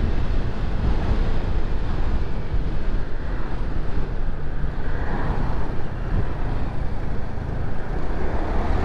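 Wind buffeting the microphone on a moving Honda Navi scooter, with its small single-cylinder engine running steadily underneath.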